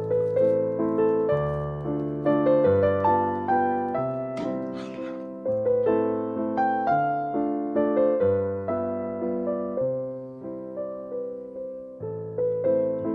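Background piano music: a melody of single notes, each striking and fading, over low notes that change about once a second.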